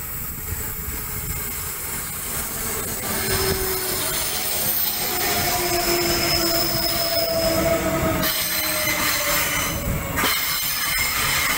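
Electric suburban passenger train running past on curved track, its wheels squealing in several high drawn-out tones from about three seconds in over a steady rumble of wheels on rails, growing louder as it comes close.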